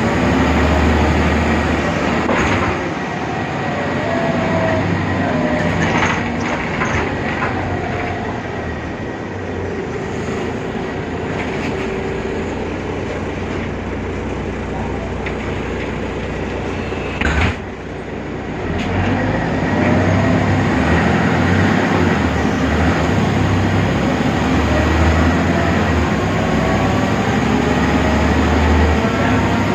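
BredaMenariniBus Avancity Plus city bus running, its Deutz diesel and ZF 6HP Ecomat automatic gearbox giving a low drone that is loud for the first couple of seconds, eases off through the middle, and builds again from about twenty seconds in. A single sharp knock sounds about seventeen seconds in.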